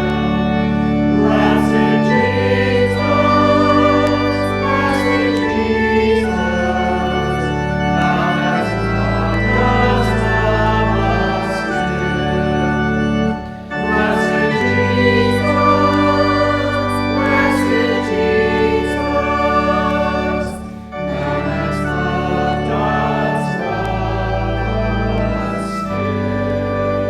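Organ playing a hymn in held chords over a sustained bass, with voices singing along. There are two short breaks between phrases, about halfway through and again about two-thirds of the way in.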